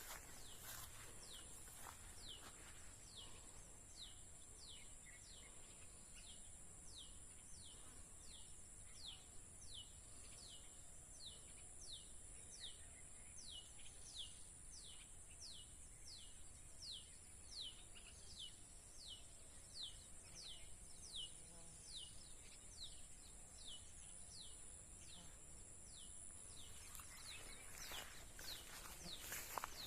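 A bird repeating one short, downward-sliding whistled note over and over, roughly one note every three-quarters of a second, over a steady high-pitched drone. A few rustling steps come in near the end.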